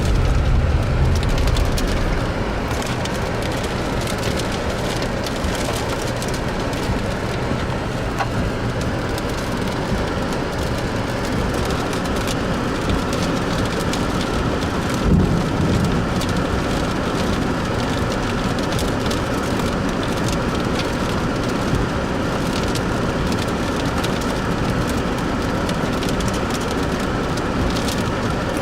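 Steady noise of heavy rain and storm wind, with one brief louder thump about halfway through.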